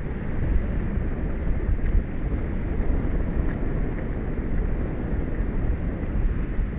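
Wind buffeting an exposed outdoor microphone over the open sea: a steady, unbroken low rumbling noise that wavers constantly in strength.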